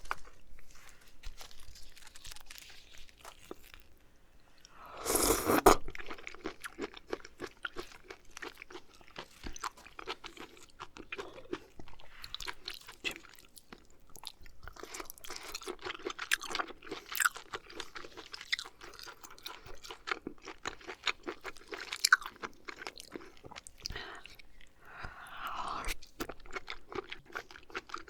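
Close-miked chewing of oysters: dense wet mouth clicks and smacks, with a louder, noisier mouth sound about five seconds in and a shorter one near the end.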